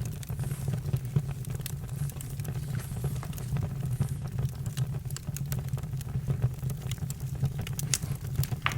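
Campfire crackling: scattered sharp snaps and pops over a steady low rumble, one stronger snap near the end.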